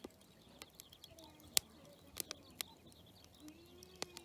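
Campfire crackling: burning firewood giving irregular sharp pops and snaps, with one loud snap about a second and a half in.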